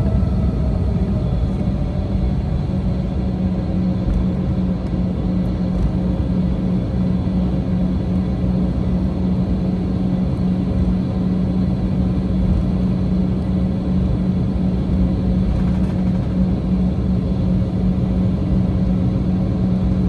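Cabin noise inside an Embraer E190 airliner with its GE CF34 turbofans running steadily: a dense rumble under a steady low hum. A fainter whine falls in pitch in the first second.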